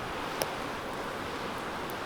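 Wood fire burning in a fire pit: a steady hiss with one sharp crackle less than half a second in and a faint tick near the end.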